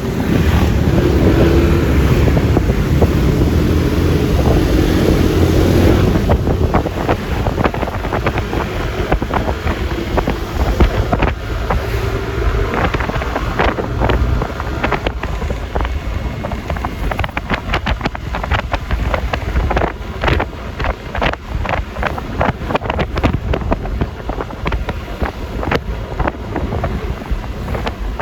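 Wind buffeting the microphone of a moving scooter, over the running engine and road noise of a Yamaha Lexi LX 155. It is heaviest for about the first six seconds, then settles into a steadier rush broken by many crackling gusts.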